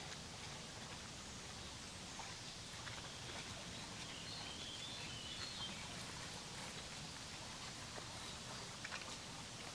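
Faint outdoor ambience: a steady low hiss with a bird singing faintly for a couple of seconds about midway, and a few light clicks.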